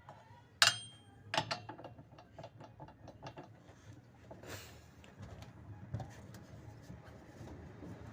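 Metal clinks and taps of hand tools: one sharp, ringing clink about half a second in, another a moment later, then a run of lighter ticks and a few scattered knocks.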